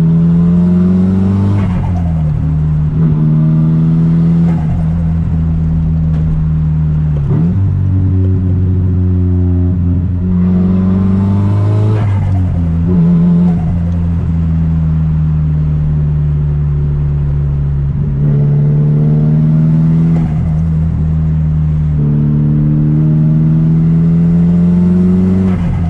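Straight-piped Nissan Silvia S15's turbocharged SR20DET four-cylinder engine driving along at a cruise. The exhaust note holds steady for several seconds at a time, with its pitch stepping up and down several times.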